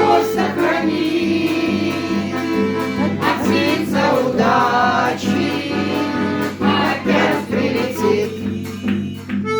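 Singing with instrumental accompaniment: voices held on sustained, wavering notes over a steady low backing.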